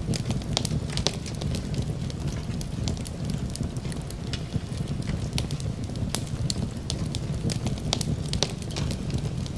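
Fireplace fire crackling: irregular sharp snaps and pops over a steady low rumble of flames, with a soft hiss of steady rain beneath.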